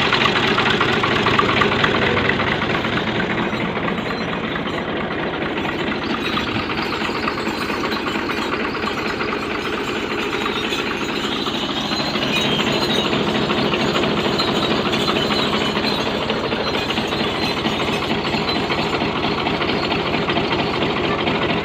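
Fiat 480 tractor's three-cylinder diesel engine running steadily with a fast, even chugging, a little louder from about halfway through.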